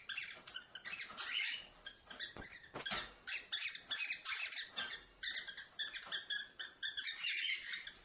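Cockatiels chirping in their cage: a rapid, continuous string of short, high chirps, several a second.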